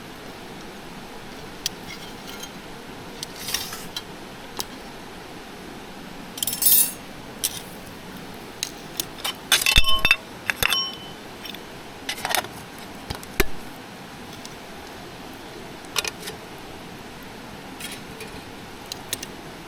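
Small metal and glass camp items clinking and rattling as they are handled, in scattered bursts with a few short ringing clinks about halfway through, over a steady background hiss.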